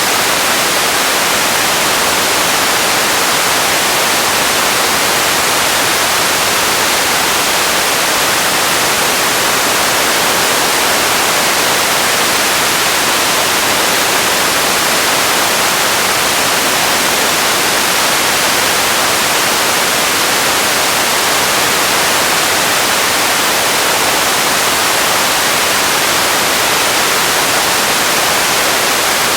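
Radio static: a loud, steady hiss with no tones or breaks, strongest in the upper range.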